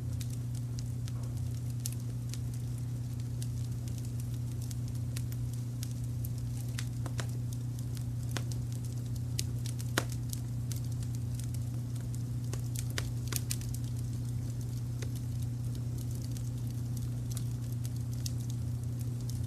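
Wood fire crackling with irregular sharp pops, one louder pop about halfway through. Under it runs a steady low rumble of brown noise.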